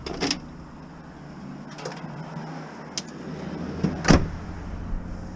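Van engine idling with a steady low hum. A few short knocks sound over it, and a heavier thump comes about four seconds in.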